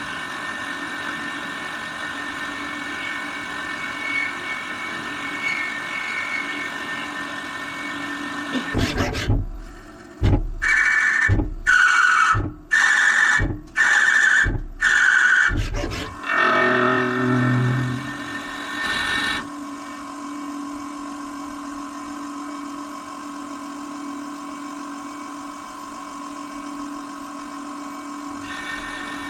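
CNC lathe running with a steady motor and spindle whine. Partway through come about six short, loud bursts of cutting noise with brief gaps between them, then it settles back to the steady whine.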